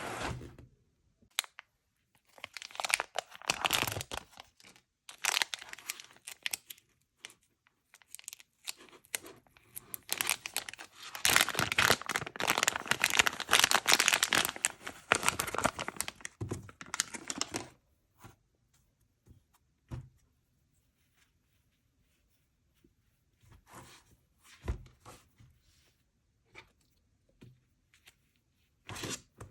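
Toy packaging being torn open and crinkled by hand: a short burst of crackly tearing a few seconds in, a longer and louder stretch in the middle, then only a few scattered soft handling clicks.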